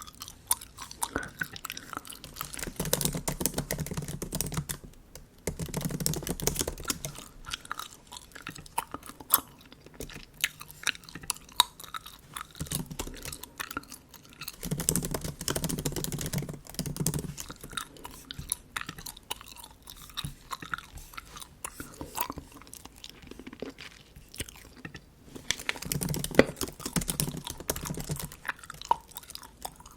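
Bubble gum being chewed with wet smacks and clicks, in bursts of a few seconds with quieter pauses between.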